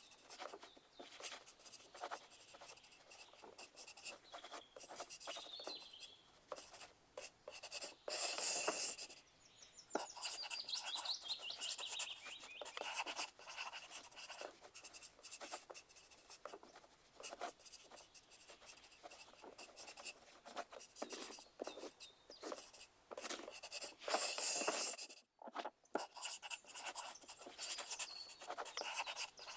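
Pencil lead scratching and tapping on paper in a steady flurry of short strokes, with two longer, louder scratching passages, one about eight seconds in and one near the end.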